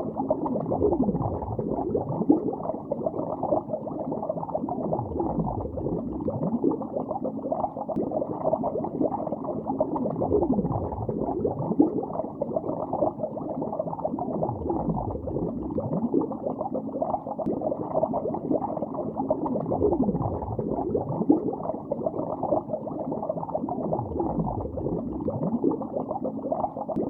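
Underwater bubbling: a steady, muffled stream of gurgling bubbles, with a deep downward-sliding whoosh about every five seconds.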